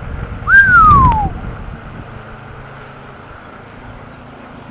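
Wind buffeting the microphone while cycling, loudest about half a second in. Over it comes one short whistle-like tone falling in pitch.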